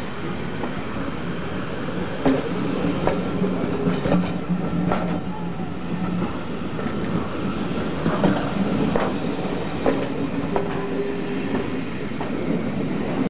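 Railway passenger coaches rolling past close by, their wheels clicking over rail joints at uneven intervals over a steady rumble.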